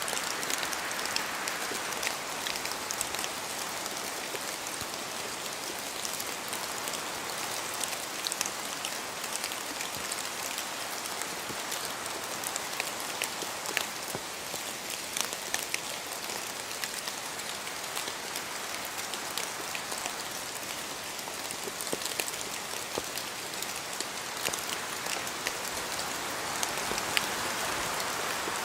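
Rain falling in a spruce forest: a steady hiss with many separate drops ticking on leaves and branches, and wind swelling through the trees at the start and again near the end.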